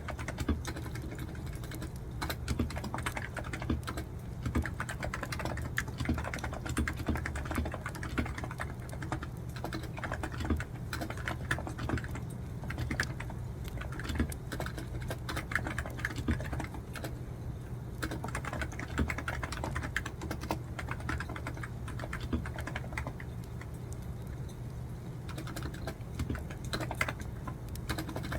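Continuous typing on a computer keyboard: quick, irregular key clicks with brief pauses, over a steady low hum.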